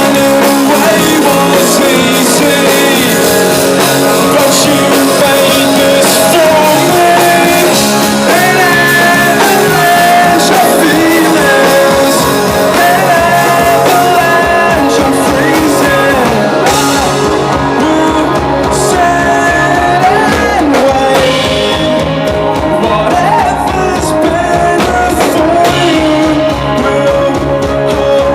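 Rock band playing live and loud: guitars and drums with a voice singing over them.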